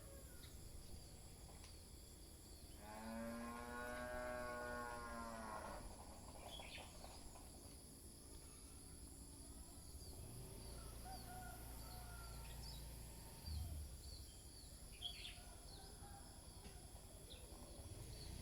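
A cow moos once, a single long call of about three seconds, over a faint background of scattered bird chirps and a steady high insect drone.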